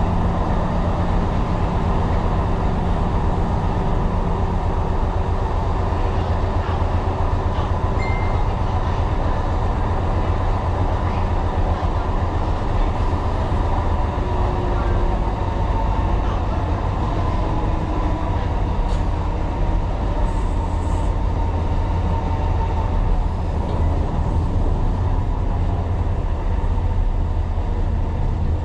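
Tyne & Wear Metro train running along the track: a steady low rumble of wheels and motors, with a faint hum in the first few seconds that fades out.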